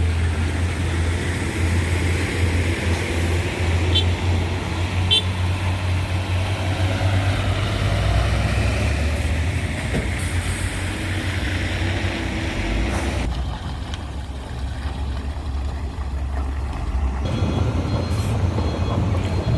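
Heavy diesel mining machinery running: a steady low engine rumble that eases off for a few seconds past the middle and then picks up again, with two short high beeps early on.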